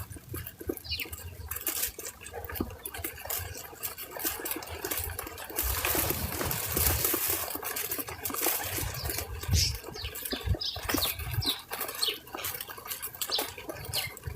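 Small birds at a feeder giving short, falling chirps, mostly in the second half, over repeated clicks, taps and rustling.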